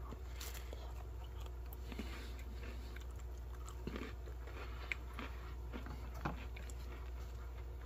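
A person faintly chewing a Sky Flakes cracker spread with peanut butter and chocolate, with soft crunches and crackles scattered through, over a steady low hum.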